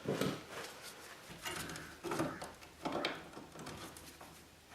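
Quiet, irregular handling noises: a few short rubs and clicks of a tool working on electrical wire while its insulation is trimmed back.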